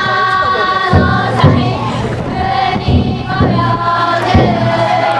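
Festival chanting and singing by a group of voices, with long held notes, over the big drum of a futon daiko drum float struck every second or so.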